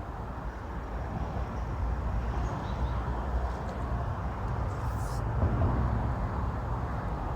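Steady low outdoor rumble with a hiss over it and no distinct single event, consistent with traffic on the road bridge overhead.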